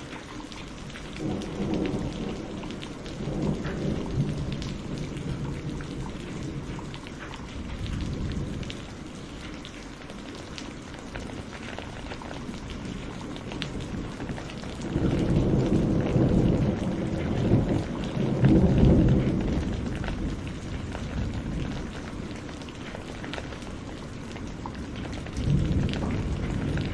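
Steady rain falling, with thunder rumbling low several times. The longest and loudest roll comes in the middle, and another starts near the end.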